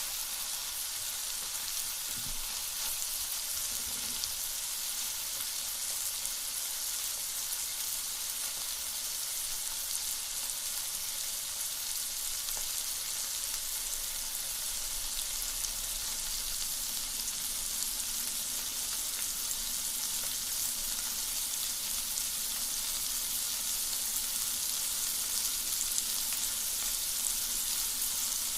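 Onion frying over a campfire: a steady sizzle with fine crackles.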